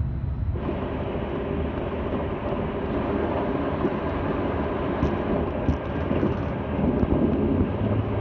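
Electric passenger train running at speed, heard from inside the carriage: a steady rumble and rush of wheels on rail, starting about half a second in.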